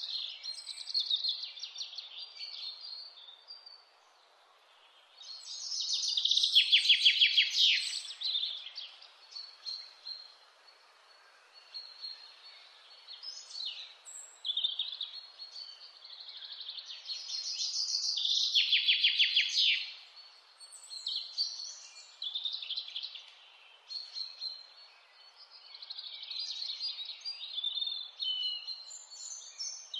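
Wild mountain birds singing over a faint steady hiss. One song of quick repeated notes stands out louder than the rest, once about a quarter of the way in and again a little past the middle, with softer calls in between.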